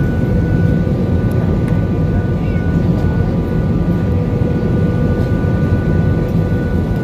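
Airliner cabin noise in flight: a steady, loud rumble of engines and airflow with a few faint steady whining tones over it.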